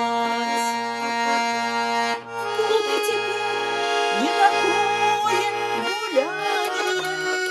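Garmon (Russian button accordion) playing an instrumental passage between sung verses: held chords in the right hand over a left-hand bass line of short, evenly paced notes.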